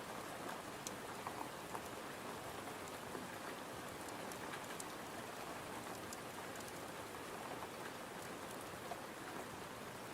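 Steady rain falling, with scattered small clicks of drops.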